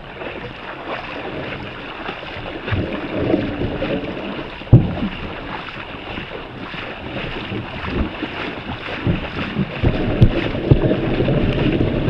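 Legs wading through knee-deep floodwater, an irregular sloshing and splashing that grows louder toward the end, with one sharp thump about five seconds in.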